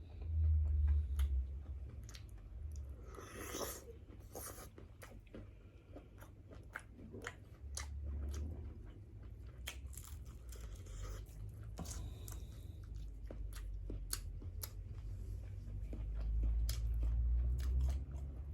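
Close-up chewing and biting of grilled seafood, with irregular crunching and crackling bites over a low steady hum.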